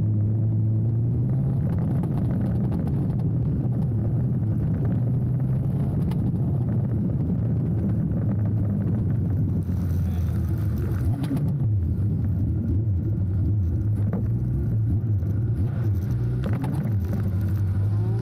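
Speedway sidecar engine running at low, fairly steady revs, its pitch dipping and rising briefly a few times in the second half.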